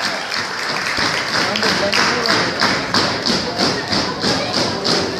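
Audience clapping in unison to a steady beat, about three claps a second, settling into rhythm a second or so in.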